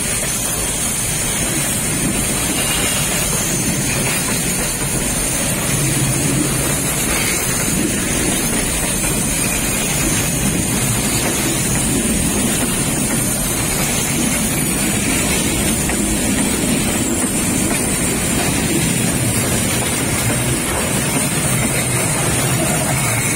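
Container wagons of a freight train rolling past close by: a steady, even rumble of steel wheels on the rails.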